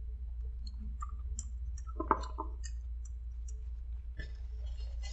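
Wet mouth clicks and smacks from chewing a piece of limp, gummy bacon with no crunch, with a brief louder mouth sound about two seconds in. Near the end, a paper napkin rustles.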